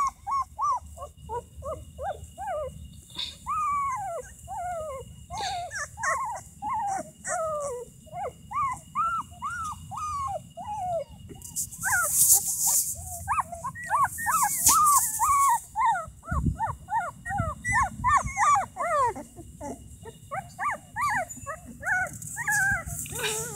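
Puppies whining and whimpering: an unbroken run of short, high, rising-and-falling cries, several a second. About halfway through there are a couple of brief scratchy rustles and a low rumble.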